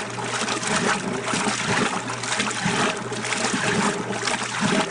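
A 70-plus-year-old Kenmore wringer washing machine running: a steady electric motor hum under water sloshing in the tub as the agitator churns, the sloshing swelling and easing roughly once a second.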